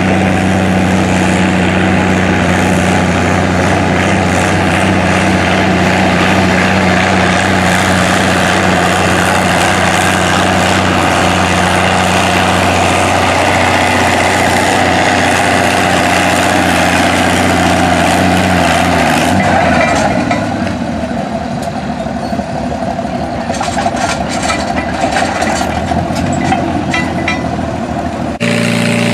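Antique tractor engine running hard with a steady, even note, as in a tractor pull. About two-thirds of the way through the note drops away, leaving a lower, rougher engine sound.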